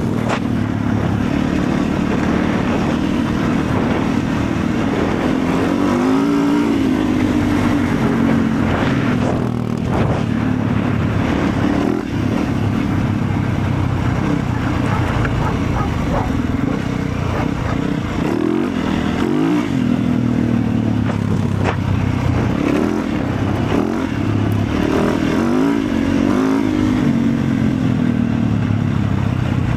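Motorcycle engine running steadily under way, its revs rising and falling several times.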